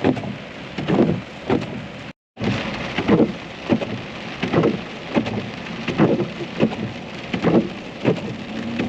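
Rain on a moving vehicle, heard from inside the cab: a steady wash of rain with a regular thump roughly every three-quarters of a second. The sound drops out completely for a moment about two seconds in.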